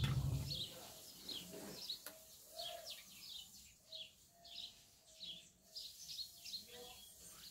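Small birds chirping: short, high chirps repeated several times a second. A brief low rumble sounds at the very start.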